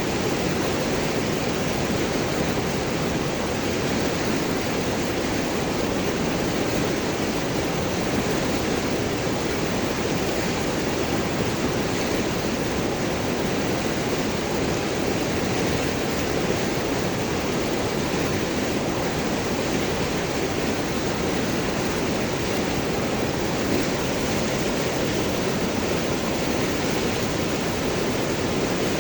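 River water rushing and gurgling over and around large rocks, a steady, unbroken noise.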